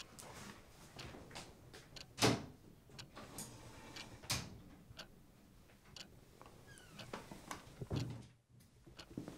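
Footsteps of someone walking through a room, about two steps a second, with two louder knocks about two and four seconds in.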